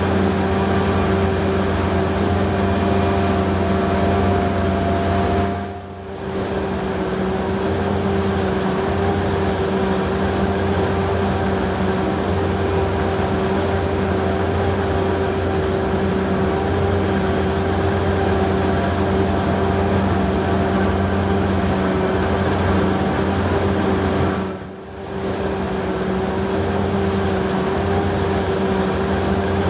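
Heavy farm machinery running steadily under load, a constant droning hum with a steady whine over it. The level dips briefly twice, about six seconds in and near the end.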